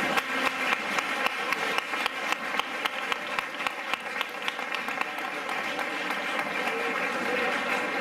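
Crowd applauding, the clapping dense and sharp for about the first five seconds, then thinning into a steadier wash.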